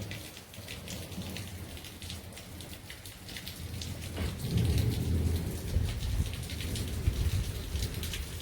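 Heavy rain falling steadily, with a low rumble of thunder that swells about four seconds in and rumbles on for several seconds.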